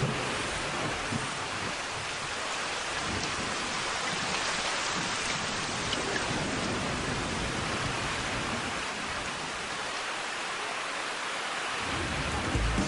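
Steady heavy rain: a dense, even hiss with no break.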